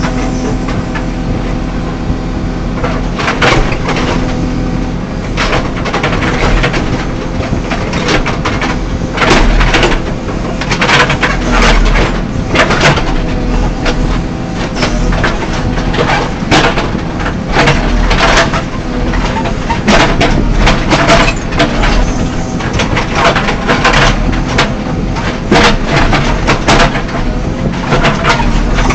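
JCB 3CX backhoe loader at work: its diesel engine runs steadily under repeated, irregular clanks and scrapes from the bucket and arm digging.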